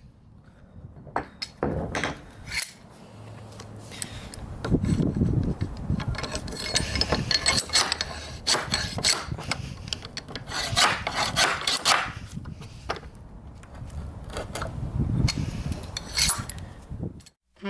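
Irregular, repeated rubbing and scraping strokes of hand abrasive work on a rusty cast iron nail puller. The strokes come faster in the middle and stop abruptly near the end.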